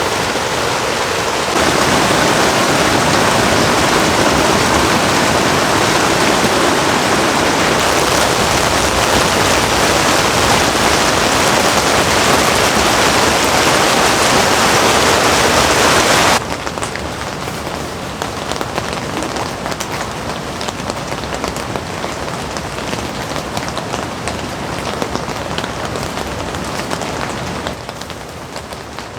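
Heavy rain falling steadily, loud and dense; about two-thirds of the way through it drops suddenly to lighter rain.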